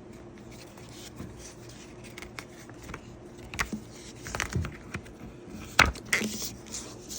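Quiet room tone with a few scattered short clicks and rustles, the sharpest one nearly six seconds in.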